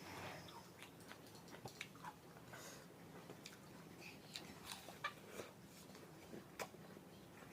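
Faint close-up eating sounds: chewing with irregular small wet clicks and smacks of the mouth.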